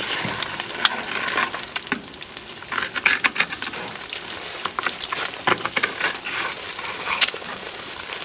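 Food sizzling in a frying pan, with a spatula scraping and clicking against the pan every second or so.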